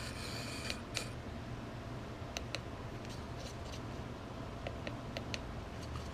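Blue Bird 210DMH RC servo whining as it drives, then cutting out suddenly less than a second in. The servo is intermittently stopping working. Scattered light clicks follow over a steady low hum.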